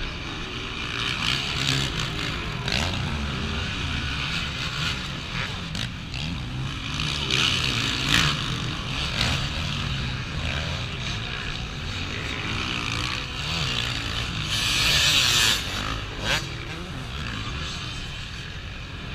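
Motocross bike engines running and revving, the pitch rising and falling as the bikes work around the track, with a brief loud hiss about fifteen seconds in.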